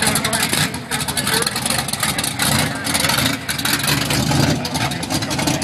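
Loud hot-rod V8 engine running with a choppy, rapid firing beat, held fairly steady rather than revved up.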